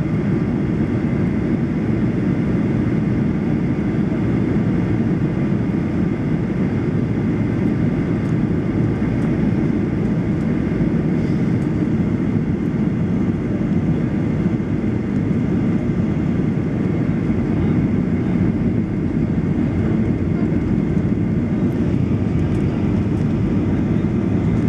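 Steady cabin noise inside a Boeing 737-800 on approach: an even, low rumble of its CFM56 engines and the airflow around the fuselage, with a faint high steady tone over it.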